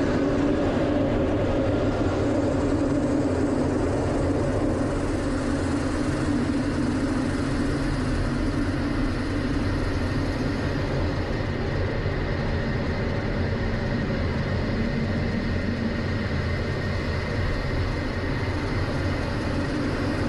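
Steady engine drone that holds a few low tones without change in pitch, over a wide, even noise.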